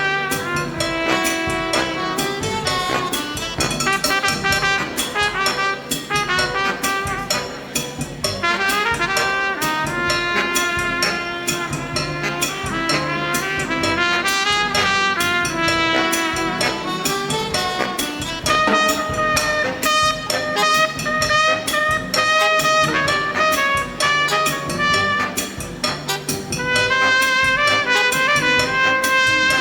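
Big band playing an instrumental passage of a cha-cha-cha: the brass section (trumpets and trombones) holds out sustained chords over drum kit and rhythm section, swelling louder near the end.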